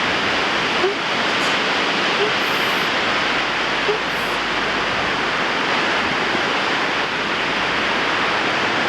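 Strong wind blowing across the microphone: a loud, steady rush of noise that buries other sounds.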